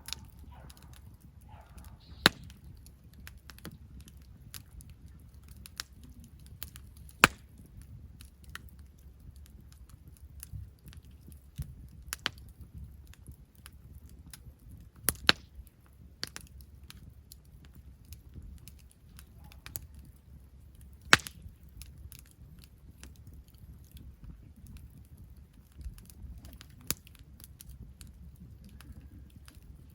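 Wood campfire crackling: scattered sharp pops and snaps, a handful of them much louder than the rest, over a low steady rumble.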